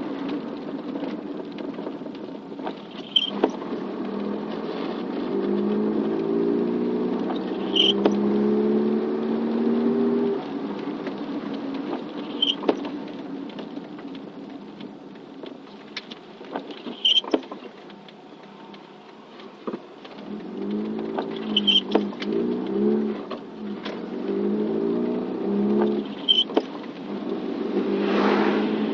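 Car engine running while driving, its pitch climbing in steps as it accelerates through the gears, then easing off and climbing again. A short high chirp repeats about every five seconds, with scattered small ticks.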